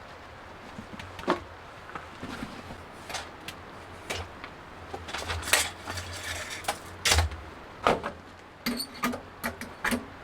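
Scattered clicks, taps and light clinks of small hard objects being handled, coming more often in the second half, over a steady low hum.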